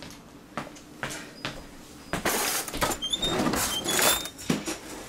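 A cupboard or door being opened and things handled. A few scattered knocks give way to denser rustling and clattering about two seconds in, with brief high squeaks near the middle.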